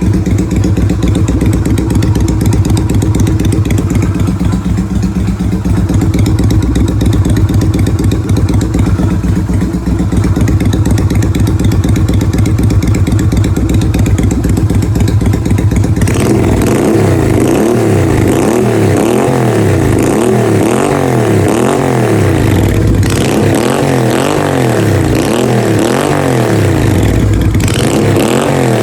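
Yamaha Virago 250's V-twin engine idling steadily, then from about sixteen seconds in revved over and over in quick throttle blips, its pitch rising and falling with each one.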